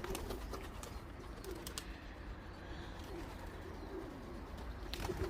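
Racing pigeons cooing softly at the loft: a series of low, repeated coos, with a few light clicks.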